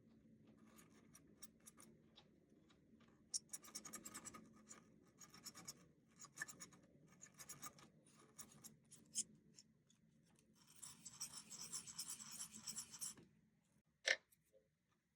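Fiberglass scratch pen scrubbing the metal wheels of an HO scale model locomotive: faint scratching in short, irregular strokes, with a longer steady scrub about two-thirds of the way through. A single sharp click comes near the end.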